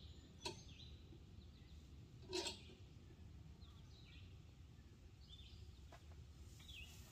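Near silence: faint bird chirps over a low background rumble, broken by two short knocks, about half a second and two and a half seconds in.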